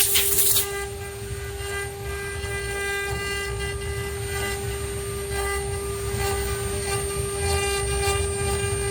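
CNC router spindle running with a steady high whine, the gantry moving between cuts. A louder stretch of cutting noise stops about half a second in.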